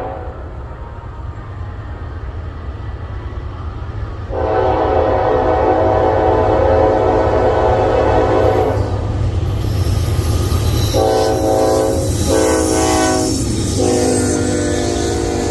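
Norfolk Southern freight locomotive sounding its air horn over the steady low rumble of its diesel engine. One long chord comes about four seconds in, then two short blasts and another long one near the end.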